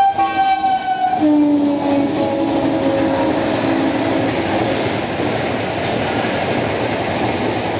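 A train passes close by, sounding its horn. About a second in, the horn's pitch drops as the train goes past, and the horn stops at about four seconds. The steady rumble of the coaches on the rails runs on to the end.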